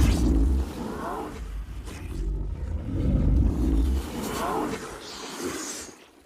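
Monster growl sound effect for the Kothoga creature, performed by a man's voice: a deep growling rumble with two short rising-and-falling cries, then a breathy wheeze near the end before it fades out.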